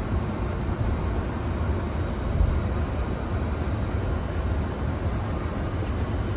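Steady low rumble and hiss of a Boeing 747's engines and systems heard inside the cockpit, with a faint high steady tone and a soft low thud about two and a half seconds in.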